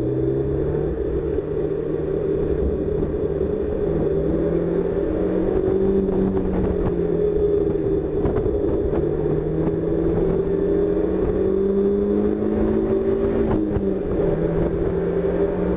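1999 Mazda MX-5 Miata (NB) four-cylinder engine running hard on a race track, heard from inside the open cockpit. Its pitch holds fairly steady with slow climbs and dips briefly near the end.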